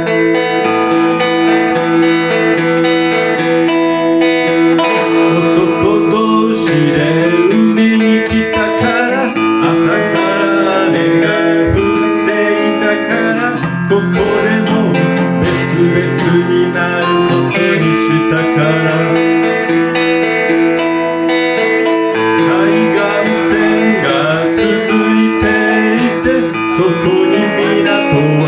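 Electric guitar, a Telecaster through a Roland JC-120 amp, playing a solo instrumental passage of long, ringing held notes with moving lines above them.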